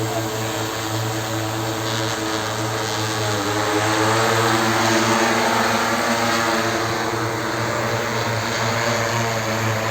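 Multirotor drone's propellers humming steadily. The pitch dips about three seconds in, and the sound grows louder for a couple of seconds after.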